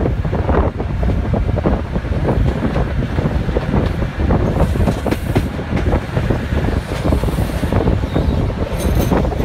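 InterCity 125 diesel train running under power, heard from an open coach window with air rushing past the microphone. The wheels clatter over pointwork, and a brief high wheel squeal comes near the end.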